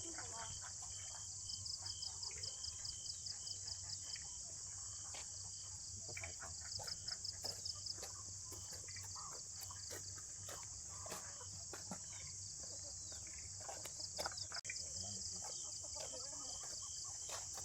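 Dusk insect chorus: a steady high-pitched buzz with bursts of rapid chirping from crickets, each run lasting a second or two and coming back several times, over scattered faint clicks.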